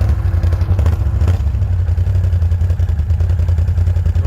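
Quad bike (ATV) engine running steadily, a loud, even rumble.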